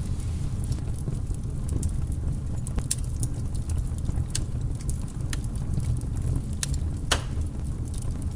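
Log fire burning in a fireplace: a steady low rumble of flames with scattered sharp crackles and pops, one louder pop about seven seconds in.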